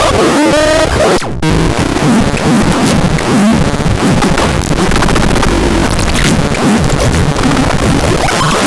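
Loud, harsh electronic noise: a dense distorted wall of sound, with a few gliding squealing tones in the first second and a brief dropout just after it.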